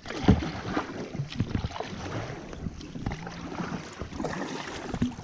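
Kayak being paddled: the paddle splashes in the water, with irregular knocks and thuds.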